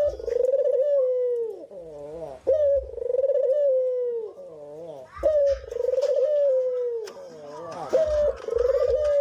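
Two brenggolo pigeons cooing in full voice: loud wavering coos, each starting with a sharp note and sliding down, repeating about every two and a half seconds, with softer, lower warbling coos in between.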